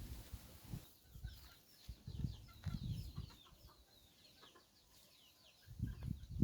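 Backyard chickens clucking, with a run of short, high, falling peeps from about a second in.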